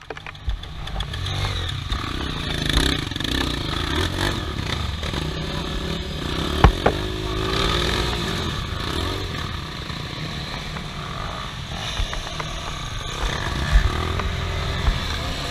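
Off-road vehicle engine running steadily, with a sharp knock about seven seconds in followed by a brief change in the engine note.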